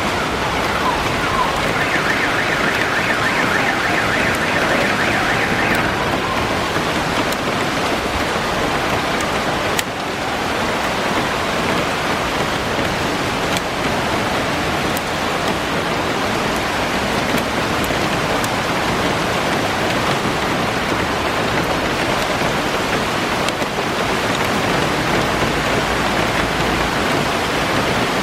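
Heavy rain pouring steadily, a dense even hiss. For a few seconds near the start a rapidly pulsing higher tone sounds over it.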